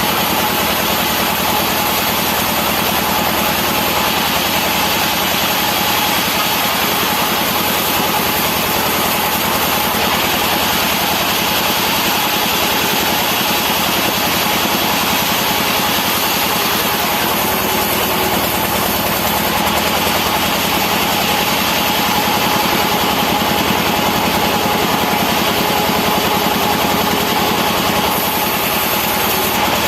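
Sawmill machinery cutting rubberwood-type timber for pallet boards, running steadily with a constant whine over a dense mechanical noise.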